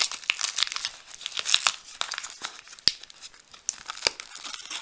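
MRE ration pouch crinkling and tearing as it is handled, with irregular crackles and a couple of sharp snaps.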